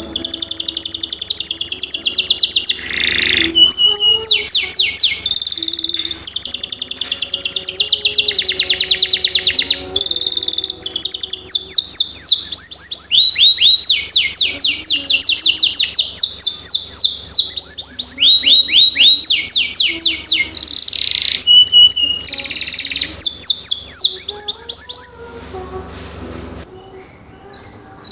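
Domestic canary singing, a long loud song of rapid trills and rolls in quick repeated sweeps that stops abruptly near the end.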